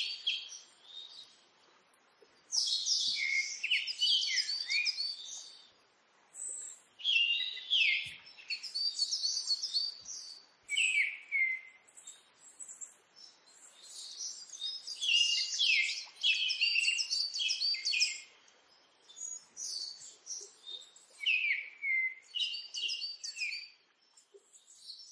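Songbird singing in repeated phrases of quick high chirps and trills, each a few seconds long with short pauses between them.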